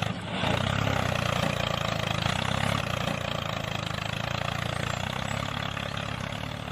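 Tractor engine idling steadily with a rapid, even chug.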